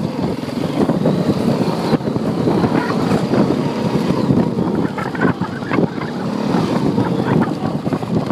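Honda quad bike's engine running as the ATV is ridden in low range, the engine note steady with irregular rattles and bumps.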